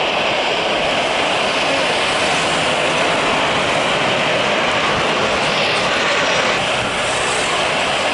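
Jet airliner engines making a steady, loud rushing noise that holds level throughout.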